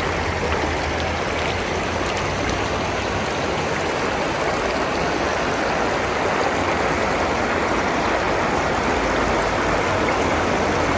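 Steady rushing noise of running water, like a stream or small waterfall.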